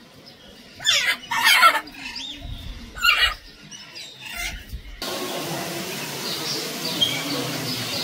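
Loud, harsh bird calls, three of them in the first half and the second the longest; then, after an abrupt change, a steady background of many faint bird chirps.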